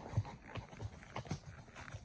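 Horse's hooves falling on a woodland trail at a walk, soft dull clip-clops about three times a second.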